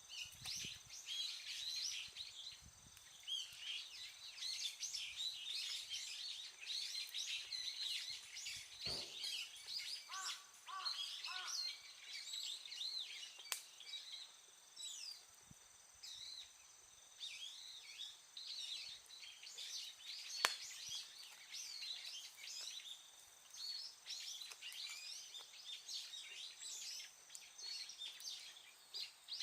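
Many small birds chirping and calling over each other without a break, with a couple of sharp clicks partway through.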